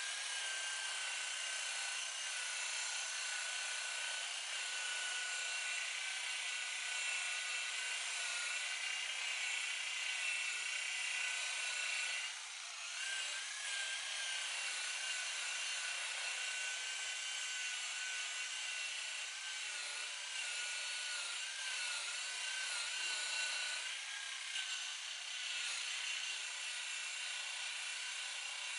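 Handheld electric power tool running steadily with a high motor whine whose pitch wavers slightly, dipping briefly about twelve seconds in.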